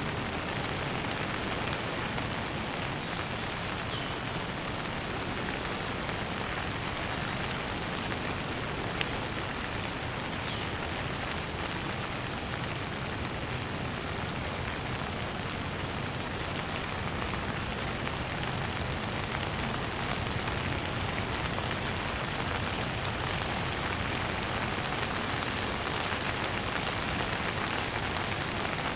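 Steady gentle rain falling, an even patter, with a few faint short bird chirps scattered through it.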